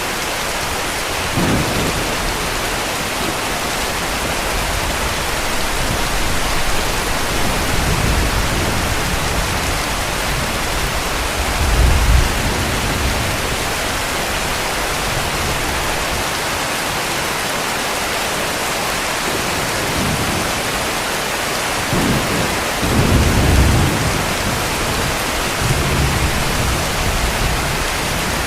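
Heavy rain falling steadily, with low rumbles of distant thunder rolling in several times. The loudest rumbles come about twelve seconds in and again around twenty-three seconds in.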